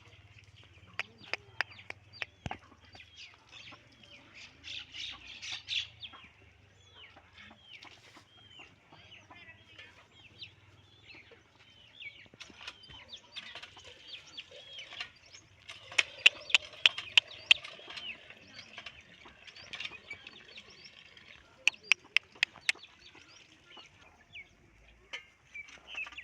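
Birds chirping on and off with many short, repeated calls. Two clusters of loud, sharp clicks or knocks come in the second half.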